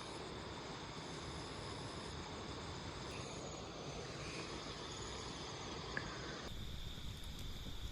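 Night insects, crickets among them, trilling steadily at a high pitch over a constant background hiss.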